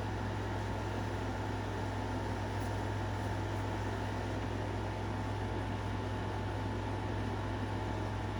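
Steady low hum with an even hiss, like a fan or other running appliance, unchanging throughout; a couple of faint ticks come a few seconds in.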